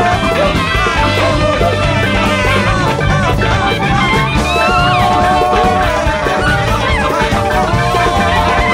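Large free-jazz band playing live: drums and bass keep a dense, steady groove under long held melodic lines and bending, sliding phrases.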